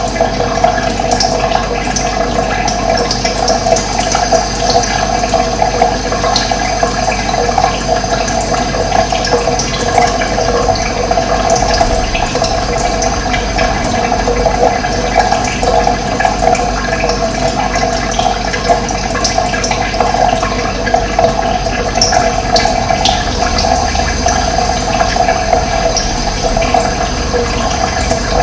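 Running water, a steady, even rush of flowing water that does not change.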